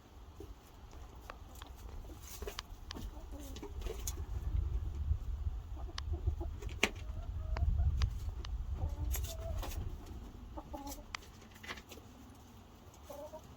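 Chickens clucking softly close by, with a low rumble on the microphone that swells in the middle and scattered sharp clicks of handling.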